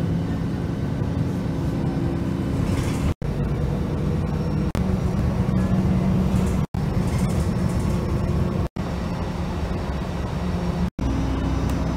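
Aircraft engine noise: a steady, loud rumble with a low hum, in a string of short clips cut together, so the sound breaks off sharply and restarts every two seconds or so.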